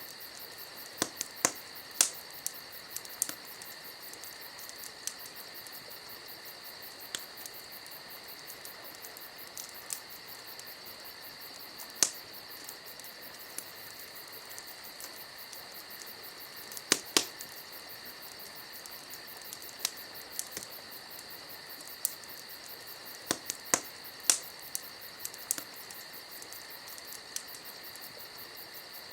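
Campfire crackling, with irregular sharp pops scattered through, the loudest about 2, 12, 17 and 24 seconds in. Under it runs a steady high-pitched chirring.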